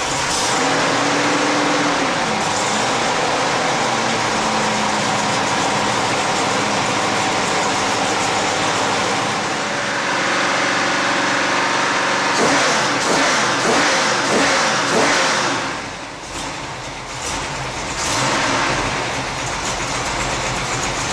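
Chrysler Hemi V8 with twin four-barrel carburettors running on an engine stand at a steady fast idle. Past the middle it is revved up and down, then it drops back briefly and picks up again near the end.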